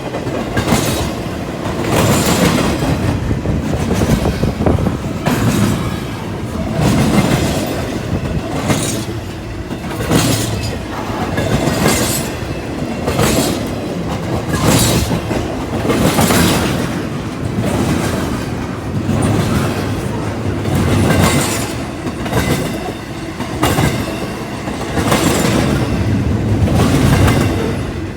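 CSX freight train's cars rolling past, wheels clacking over the rail joints in a steady rhythm of about one clack every second and a half, over a constant rumble.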